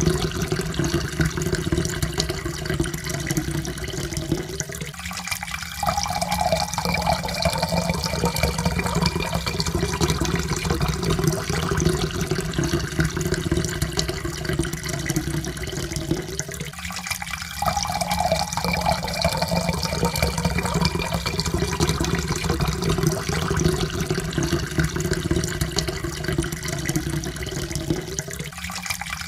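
Water being poured steadily into a cup, its pitch rising slowly as the cup fills. The pour breaks off and starts again about every twelve seconds, twice in the middle and once more at the end.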